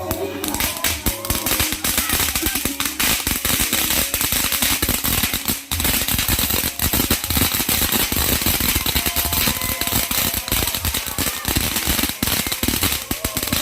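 Golden Eye GE500 flower fountain firework spraying sparks with dense, rapid crackling that starts sharply just after the beginning and keeps going.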